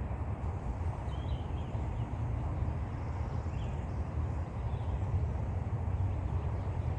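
Outdoor ambience: a steady low rumble with a few faint, short high chirps from birds.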